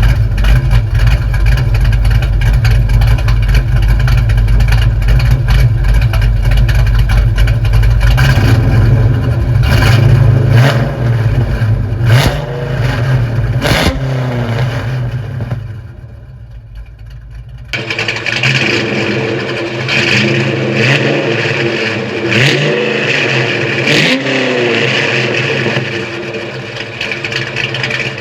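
1988 Mustang LX's 306 small-block Ford V8 running loud through headers, an X-pipe and SpinTech Super Pro Street 9000 race mufflers. It idles with a heavy low rumble for about eight seconds, then is revved in several quick throttle blips that rise and fall in pitch. There is a short quieter spell about two-thirds of the way through.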